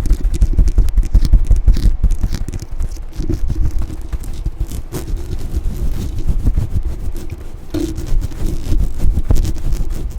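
A brush scrubbed rapidly and hard against a microphone: a dense, scratchy scraping with a heavy low rumble from direct contact with the mic, in quick irregular strokes.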